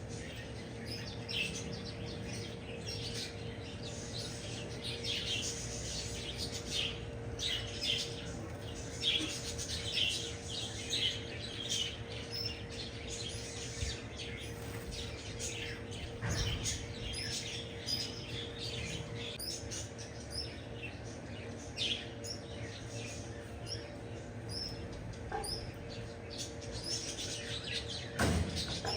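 Small pet birds chirping and twittering in many short high calls, over a steady low hum. There are a couple of soft thumps, one midway and one near the end.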